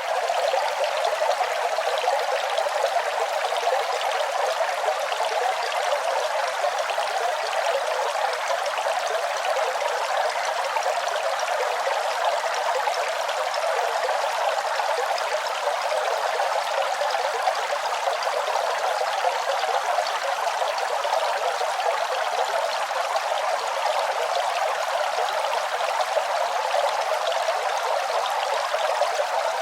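Running water flowing in a steady, unbroken splash and trickle, with no pause or change.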